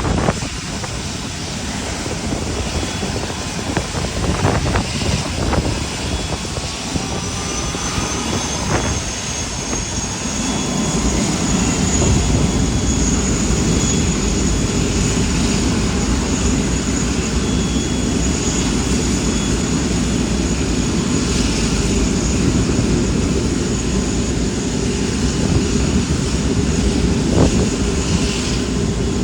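Jet engines of a British Airways Airbus A380 at taxi power, Rolls-Royce Trent 900 turbofans: a steady high whine over a deep rumble that grows louder about ten seconds in.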